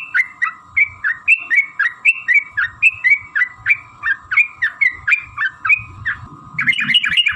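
Yellow-vented bulbul (trucukan) singing a long, rolling chattering song: a rapid run of short downslurred whistled notes, about three to four a second. After a brief pause about six seconds in, it comes back in a faster, denser burst.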